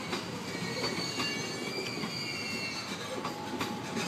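Electric commuter train moving over the station tracks, its wheels giving a thin high squeal with a few clicks over rail joints above a steady rumble.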